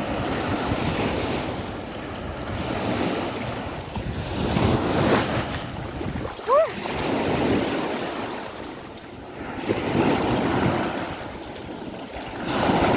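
Sea surf: waves breaking and washing up the shore in repeated swells, with wind buffeting the microphone. A short rising cry is heard about halfway through.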